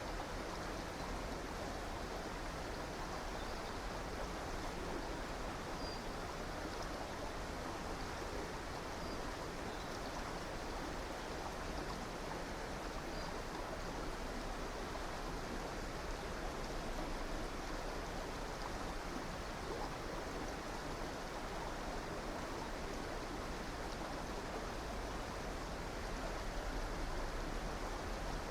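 River water flowing steadily, an even rushing of a stream over stones. A few faint, brief high chirps from small birds sound in the first half.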